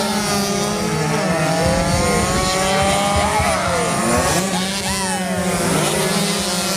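Several two-stroke underbone racing motorcycles revving hard, their pitches climbing with acceleration and dropping as they go by, over a steady low drone.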